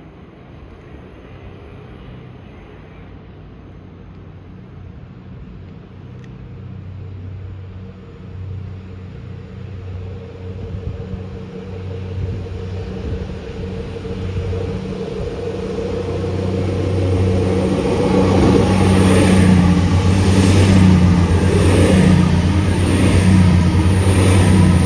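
A train approaching and passing close. A low drone grows steadily louder, and in the last several seconds a regular beat of wheels over the rails comes about once a second.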